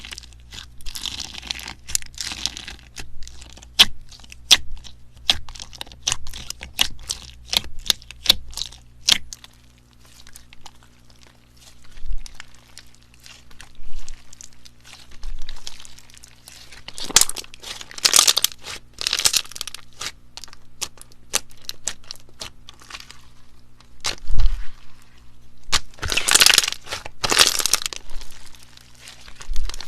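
Slime being squeezed and pressed by hand, making sharp crackling pops. The pops come in a dense run at first, then in slower squeezes about every second and a half, with a few louder crinkly bursts later on.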